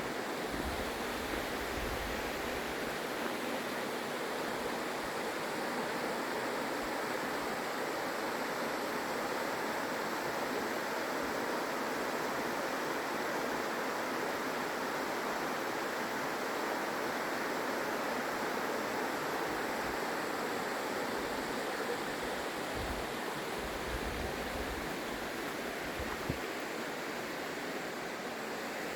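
Steady rush of mountain water from a waterfall or fast creek, an even hiss-like roar, with a few brief low rumbles along the way.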